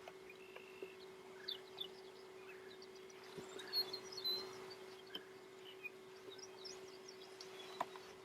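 Faint, scattered bird chirps over a steady low hum, with a few light clicks or knocks.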